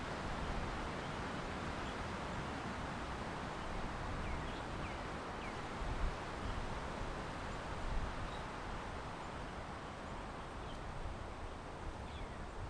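Wind blowing steadily with a low rumble on the microphone. A few short, high, falling bird chirps come about four to five seconds in, and two soft low thumps come about six and eight seconds in.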